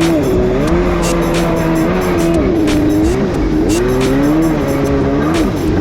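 Jet ski's two-stroke engine running under way, its pitch repeatedly dropping and climbing again as the throttle is eased off and opened.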